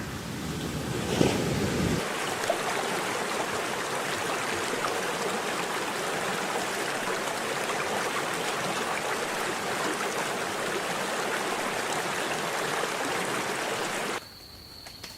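Steady rushing noise like running water or surf. About 14 s in it cuts off suddenly, leaving a quiet, steady high-pitched trill like an insect's.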